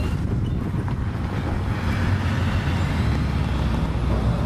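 Steady low rumble of interstate traffic passing on the highway, with wind buffeting the microphone.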